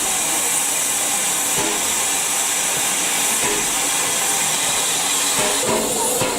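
Steam locomotive hissing steam in a steady high rush, with faint knocks and ticks beneath it.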